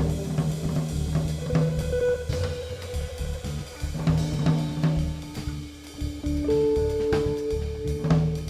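A guitar, cello and drum kit trio playing. The drumming is busy, with snare, bass drum, cymbals and hi-hat, under long held notes and a moving low line.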